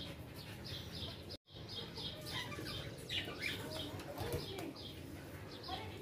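Caged pet birds chirping, short high cheeps repeating two to three times a second with a few lower calls mixed in; the sound breaks off for an instant about a second and a half in.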